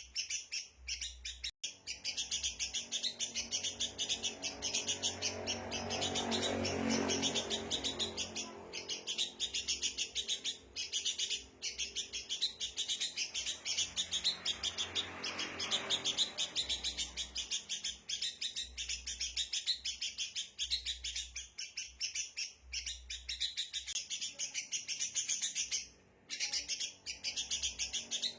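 Sooty-headed bulbuls chattering in a rowdy, agitated run of rapid high chirps, repeating without pause; this is the noisy kutilang chatter used to lure wild birds in. A low rushing noise swells up twice beneath the chirps, about six and about fifteen seconds in.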